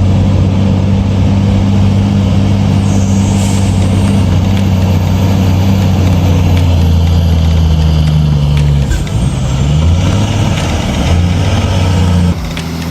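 Kenworth road train's diesel engine running under load with a deep, steady drone. About eight seconds in, its pitch dips and then climbs again, like a gear change. A brief hiss of air is heard about three seconds in.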